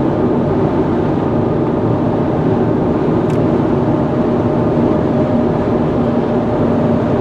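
Steady road and engine noise inside a moving vehicle's cabin, an even rumble with a faint steady hum.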